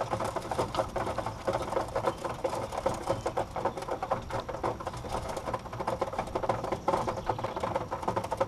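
Pigeons moving about in a loft: a busy, irregular patter of quick scratches, clicks and wing flutters, with faint coos underneath.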